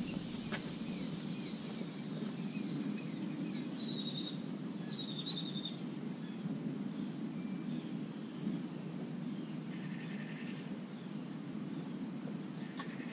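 Outdoor ambience: a bird chirping in quick short runs through the first half, over a steady high insect drone and a steady low background hum.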